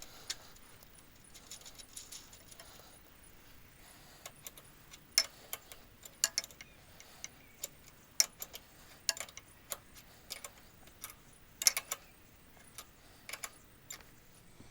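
Irregular metallic clinks and taps of hand tools and hardware while a scooter's rear shock is fitted back on, some strikes ringing briefly. They come in scattered clusters, loudest a little past halfway.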